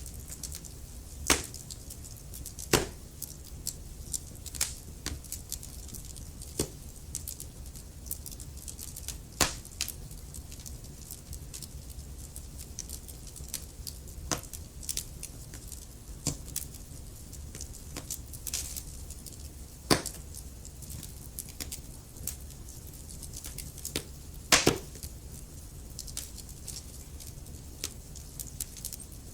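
Wood fire crackling: irregular sharp pops and snaps, a handful louder than the rest, over a low steady rumble.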